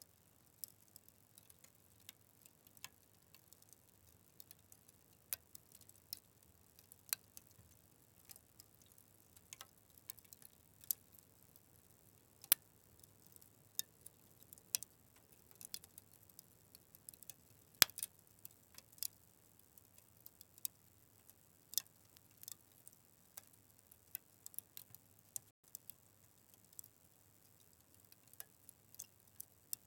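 Wood fire crackling: irregular sharp snaps and pops over a faint hiss, with the loudest snap a little past halfway.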